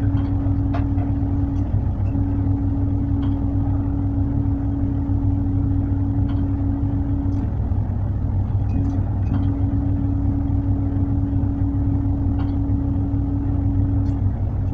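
Tugboat's diesel engine running steadily: a constant low drone with a steady hum above it that drops out briefly a few times.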